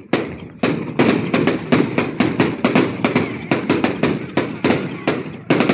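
Aerial fireworks bursting in a rapid, unbroken series of sharp bangs, about four a second.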